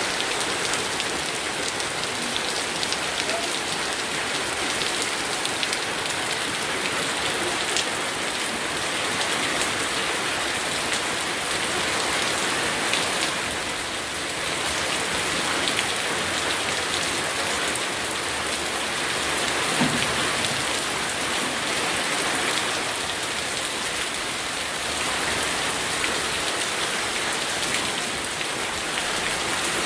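Steady rainfall, heavy and even, with the occasional nearer drop standing out.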